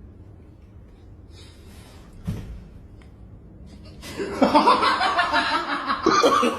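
A single knock about two seconds in, then loud laughter from about four seconds in.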